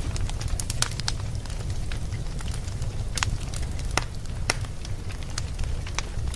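Fire burning in a fireplace, crackling with scattered sharp pops over a steady low rumble.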